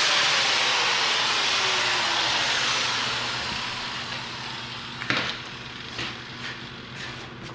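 A power tool winding down after being switched off: a loud hiss with a falling whine that fades away over a few seconds. A few sharp knocks follow near the end.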